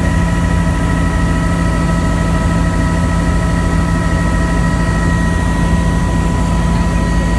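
Tour helicopter in flight, heard from aboard: a loud, steady low rotor and engine rumble with a constant high-pitched whine above it.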